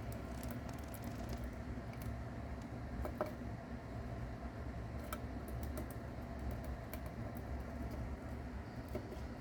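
A mouse chewing a cicada, giving irregular small dry crunches and clicks as it bites through the insect's hard shell, over a steady low hum.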